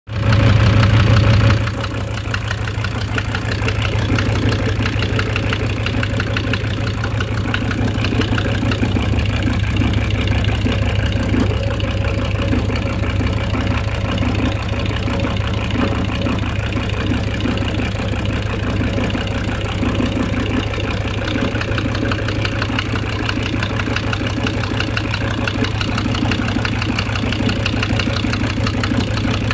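SsangYong Musso engine idling with a steady knock, which the owner takes for a knock in the piston group. It runs louder for the first second or so, then settles to an even idle.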